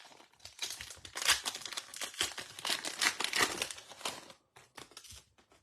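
A trading card pack's foil wrapper being torn open and crinkled by hand, a dense crackling that lasts about four seconds, then a few light clicks as it is set aside.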